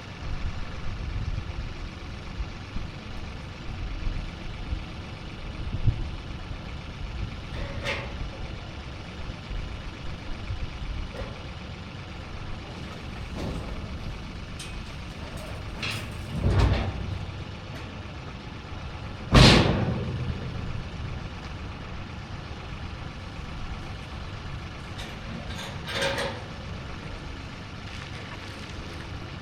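Heavy-equipment diesel engine idling steadily, with a few sharp knocks breaking in, the loudest about two-thirds of the way through.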